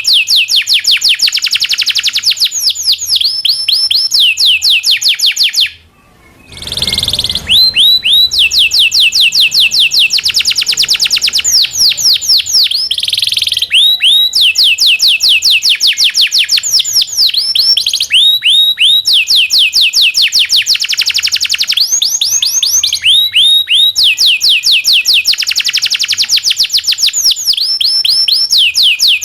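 Domestic canary singing loudly in long, fast trills of repeated sweeping chirps, the "cuit cuit" and rolling phrases that keepers use as master song for training young canaries. The song breaks off briefly about six seconds in, with a short noisy burst before it resumes.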